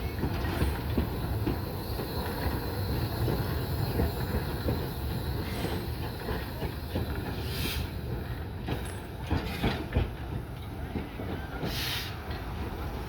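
Steam train on metre-gauge track rolling slowly while shunting: a steady rumble of wheels on rails with many small clicks and knocks. Two short bursts of hiss come about eight and twelve seconds in.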